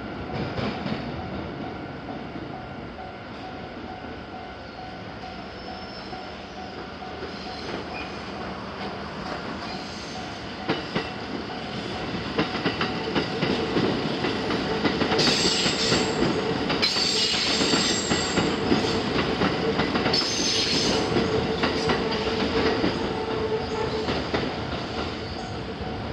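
Kintetsu electric train passing over a multi-track level crossing, growing louder about halfway through, with wheel clacks and several bursts of high wheel squeal, while the crossing alarm rings steadily.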